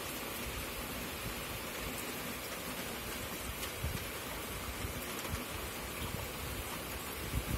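Steady rain falling, an even hiss, with a few low thumps about four seconds in and near the end.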